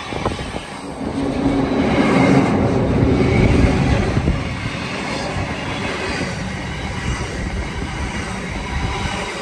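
Train passing close by, a loud rumble with wheels clattering over the rails, loudest a couple of seconds in and then settling to a steadier run.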